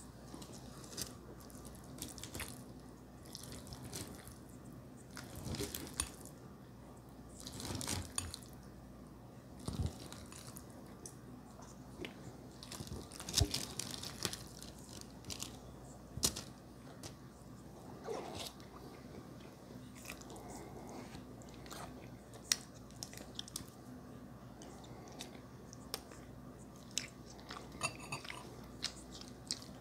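Close-miked ASMR eating: irregular chewing and biting of noodles and pieces of meat. Now and then a sharp click comes from the metal fork on the glass bowl.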